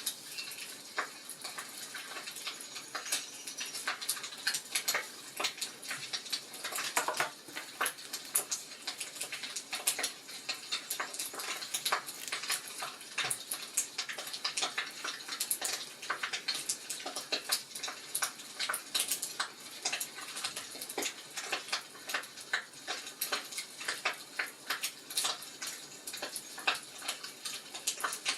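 Wood fire crackling in a fireplace, with irregular sharp pops and snaps over a steady soft hiss.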